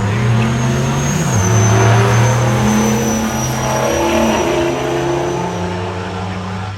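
High-horsepower diesel truck engine running hard under load, with a high steady whine above it. The engine note drops in pitch twice, about a second and a half in and again near the end, and the sound eases off toward the close.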